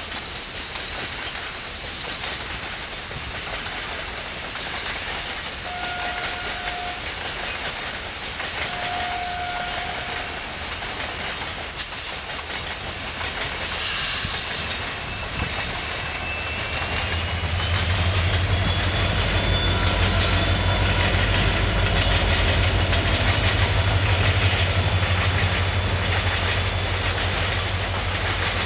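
Indian Railways WDG-4 diesel locomotive (EMD 16-cylinder two-stroke engine) hauling an express train past at speed. The rails hiss as it approaches, with a brief loud hiss about fourteen seconds in. From about seventeen seconds the engine's low throb comes in strongly, then the coaches' wheels rattle over the track.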